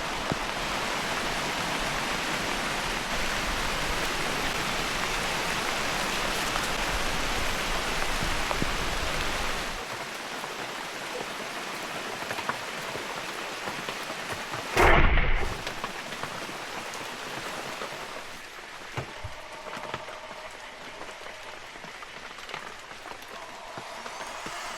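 Heavy rain falling steadily. It eases to a lighter patter about ten seconds in, and a short, loud burst cuts through about five seconds later.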